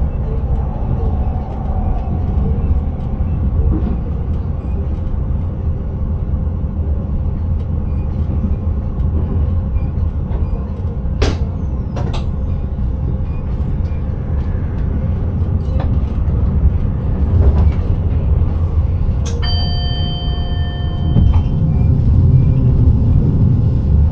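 Passenger train running, heard from inside the driver's cab: a steady low rumble, with two sharp clicks about a second apart midway. Later a steady tone sounds for about two seconds.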